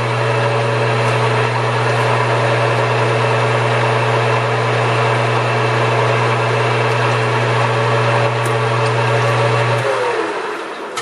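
An electric lathe motor runs steadily with a strong hum and a higher whine, switched on just before and switched off near the end, its whine falling in pitch as the spindle spins down.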